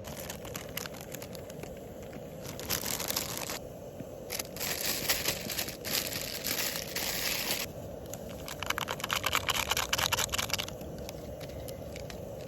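Crinkling and rustling, as of something crinkly being handled, in three bursts of one to three seconds each over a steady low hiss.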